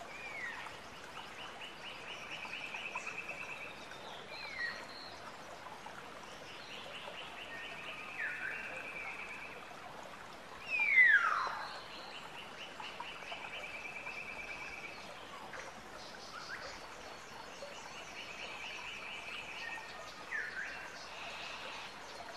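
Wild birds calling outdoors: a short pulsed trill repeated every five or six seconds, several whistles that fall in pitch (the loudest about eleven seconds in), and a faster, higher trill in the last few seconds.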